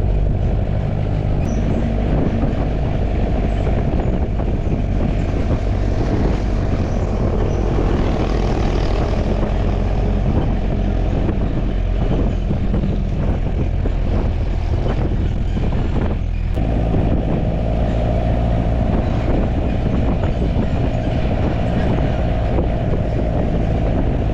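Truck engine running steadily on the move, with wind rushing over the microphone from the open back of the truck.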